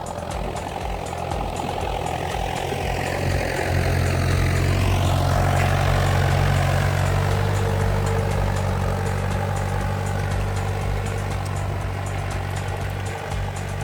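Old Kubota tractor engine running with a low, steady rumble that grows louder a few seconds in and then holds.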